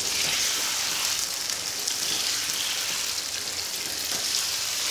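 Chicken karahi sizzling in oil in a wok while a wooden spatula stirs it: a steady, even hiss with faint crackles. The gravy has been fried down to the point where the oil separates.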